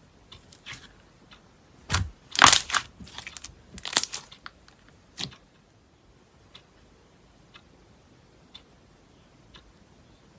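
Crunchy slime being squeezed and pressed by hand, giving a cluster of crackling crunches for about three seconds. Faint, even ticks follow, about once a second.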